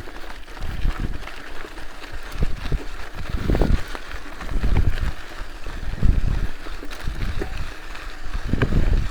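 Wind buffeting the microphone in irregular low gusts, over a faint steady outdoor hiss.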